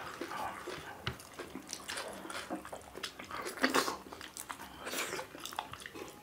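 Close-miked chewing and biting of people eating millet dhido and chicken curry by hand: wet mouth sounds and small crunches, with a louder cluster about halfway through.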